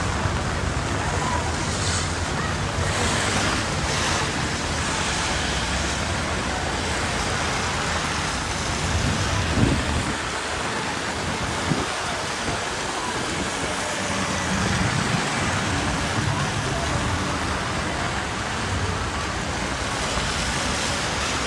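Steady rain hiss on a wet city street with traffic noise rumbling underneath, and a couple of brief louder knocks near the middle.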